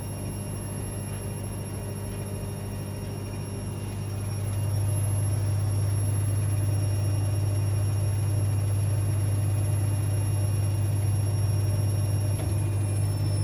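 Washing machine running: a steady low hum that gets louder about four and a half seconds in, with a faint high whine above it that drops slightly in pitch near the end.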